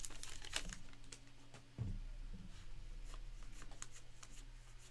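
Trading cards being handled and sorted by hand: faint light rustles and small clicks, with a soft thump about two seconds in.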